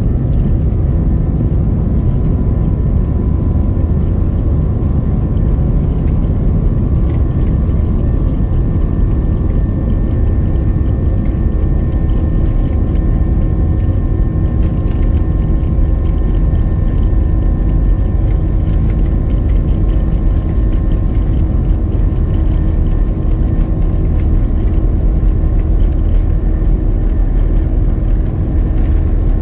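Airliner engines heard from inside the passenger cabin during takeoff or the climb-out: a steady, loud, deep rumble with several faint steady whining tones over it.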